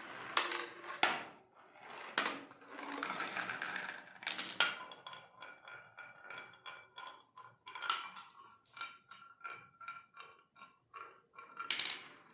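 Marbles running down a wooden marble run: a few sharp knocks, a stretch of rolling, then a long series of quick, fairly evenly spaced clicks with a faint ringing tone as a ball bounces and clatters down the track. A louder noisy burst comes near the end.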